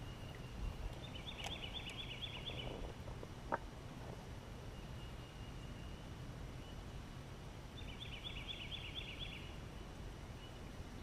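A bird singing a short rapid trill of about half a dozen quick notes, twice, about six seconds apart, over a low steady rumble. A single sharp click comes between the two songs.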